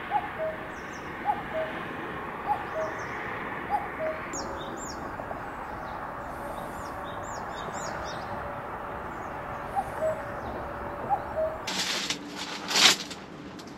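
A bird calling outdoors, repeating a short two-note call (a quick upward note, then a flat one) about once a second, with a few higher chirps, over a steady rushing background. Near the end comes a sudden loud burst of noise.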